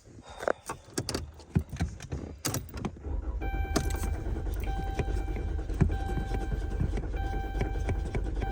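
Keys rattling and a few clicks and knocks, then about three seconds in a car engine comes in with a steady low rumble. A car's warning chime sounds repeatedly over it.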